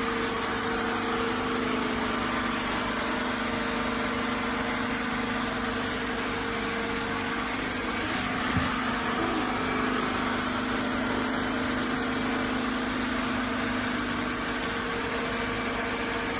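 Bissell CrossWave Cordless Max wet-dry floor cleaner running steadily: a constant motor hum with a broad hiss of suction and brush roll. A small knock about eight and a half seconds in.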